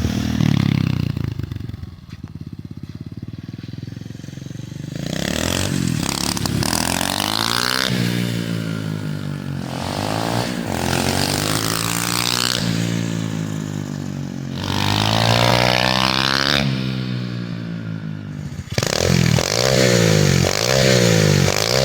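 SSR 125cc pit bike's single-cylinder four-stroke engine revving over and over, its pitch rising and falling with each blip of the throttle. It runs quieter and lower for a couple of seconds near the start before the revs pick up again.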